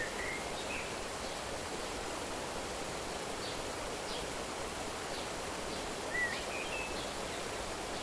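Steady rush of a flowing stream, with a few short high bird chirps near the start and again in the second half, the loudest about six seconds in.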